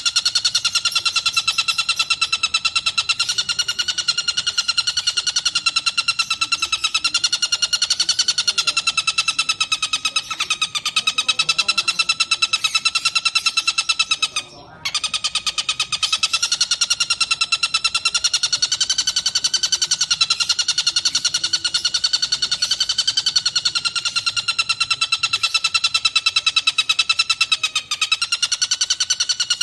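Tengkek buto kingfisher calling in a continuous, rapid, harsh trill, the dense rolling 'tembakan' call used as a training recording for songbirds. The trill breaks off for a moment about halfway through, then resumes.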